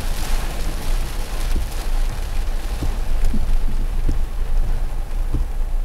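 Heavy rain falling on a car's windshield and body, heard from a dashcam inside the car, as a steady hiss with a low rumble underneath and scattered light ticks of drops.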